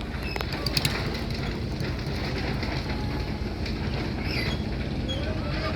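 A steady low motor rumble with scattered clicks and rattles over it.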